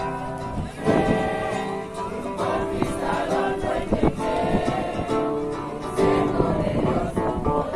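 A group of voices singing a Christian song together to music.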